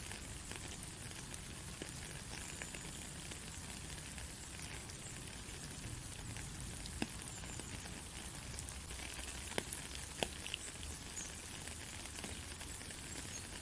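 Steady rain falling on a country road: an even hiss full of small scattered drop ticks, with a few louder single drips about seven seconds in and again around nine to ten seconds.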